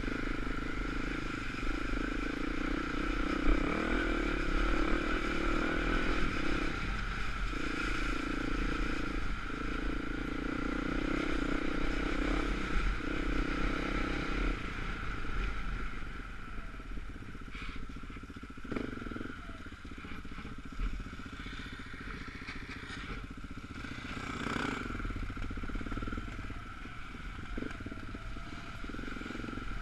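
Dirt bike engine running while riding, with its note dropping out briefly several times in the first half as the throttle is shut or gears are changed. It runs lighter in the second half, with a few sharp clatters.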